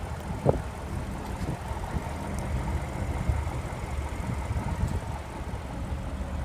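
Engine idling with a steady low rumble, and a brief squeak about half a second in.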